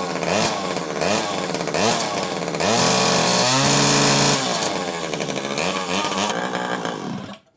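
49cc two-stroke minimoto engine driving a vacuum cleaner's pump, revved in short blips about once a second, then held at a high rev for over a second, then blipped again. It cuts off suddenly near the end.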